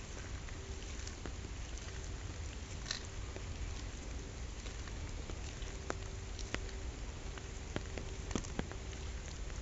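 Steady rain falling on a pond, an even hiss with scattered sharper drop ticks, a few louder ones in the second half.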